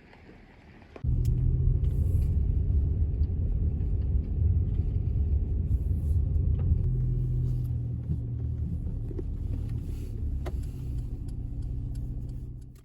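Steady low rumble that starts suddenly about a second in and fades out at the very end.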